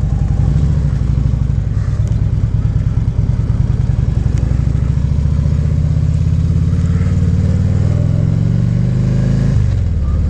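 Harley-Davidson Ultra Classic Limited's V-twin engine running under way, its pitch climbing slowly as it accelerates, then dropping near the end at a gear change.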